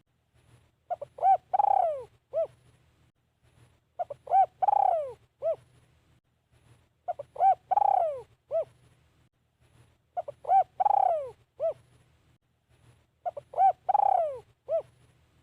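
Spotted dove cooing: the same phrase repeated five times, about every three seconds, each a few short coos around one longer coo that falls in pitch.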